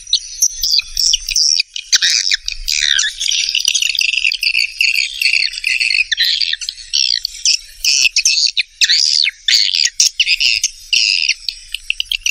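Recorded swiftlet calls: a dense, continuous chatter of high twittering chirps, buzzy trills and sharp clicks from many birds at once. This is the kind of lure call played to draw swiftlets into a nesting house.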